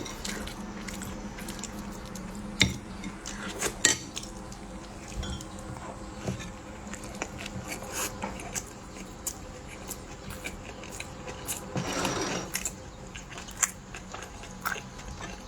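Light clicks and clinks of cutlery and dishes being handled, scattered irregularly over a faint steady hum. There is a brief, louder noisy swell about twelve seconds in.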